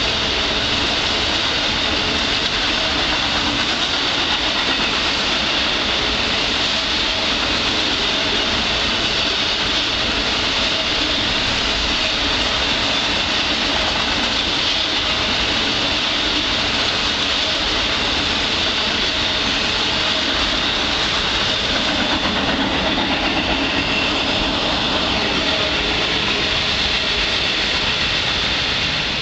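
Amtrak Auto Train's cars passing close at speed: a steady, loud noise of steel wheels running on the rails.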